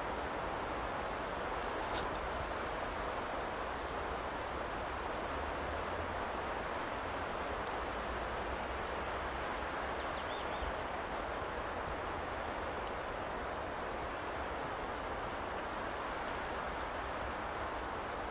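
Steady woodland ambience: an even wash of noise over a low rumble, with faint high chirps dotted through it and a short run of chirps about ten seconds in.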